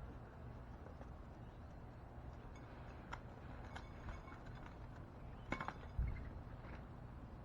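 Birds at a backyard feeder: scattered light taps and clicks, and one low thump about six seconds in, over a steady low background hum.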